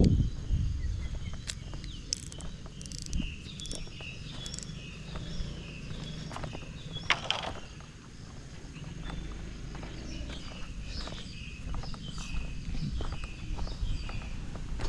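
Footsteps of a person walking outdoors, irregular crunches and knocks over a low rumble of wind and handling noise, with short high chirps repeating throughout.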